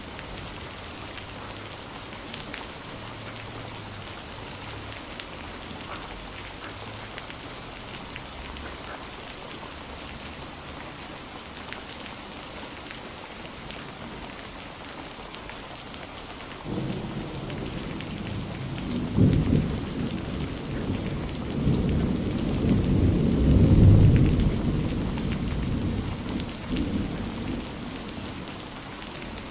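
Steady rain falling, with a long roll of thunder that begins suddenly a little over halfway through, swells to two peaks and rumbles away near the end.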